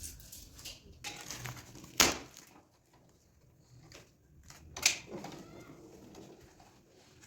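Handling and scraping noises with two sharp knocks, about three seconds apart.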